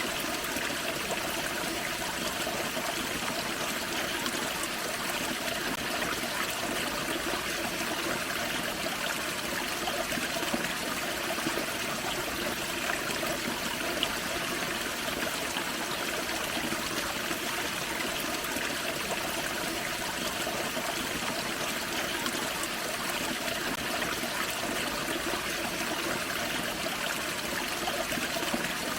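A small forest creek running steadily over a small waterfall, a constant splashing and trickling rush of water.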